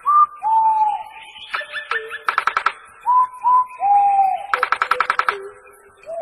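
Bird-like whistled song: clear single whistled notes that slide downward, broken twice by a short fast trill.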